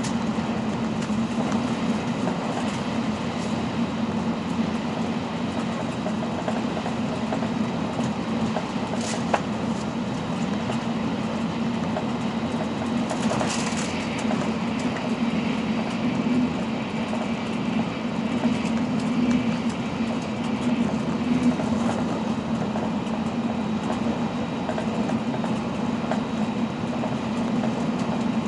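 Running noise of an N700-series Shinkansen at speed, heard inside the passenger cabin: a steady rumble and rush. A single sharp click comes about nine seconds in, and a short hiss about halfway through.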